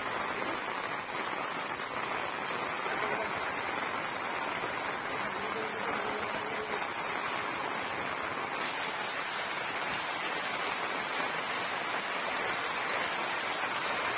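Steady, even hiss of heavy rain and running floodwater.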